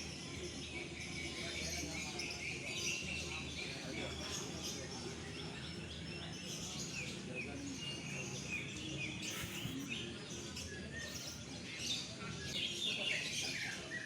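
Several caged songbirds chirping and singing at once, a dense run of short, overlapping calls over a steady background hiss.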